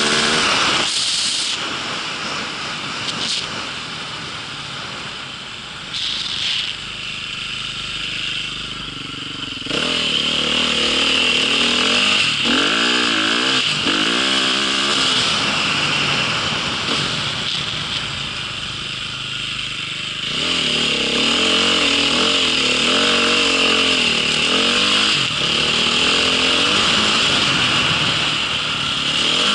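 A vehicle engine being ridden, its pitch rising and falling repeatedly with the throttle, over a steady hiss.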